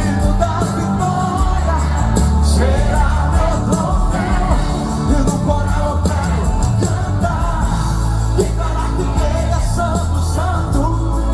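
Live gospel band music with a strong steady bass and drums, and a voice singing over it.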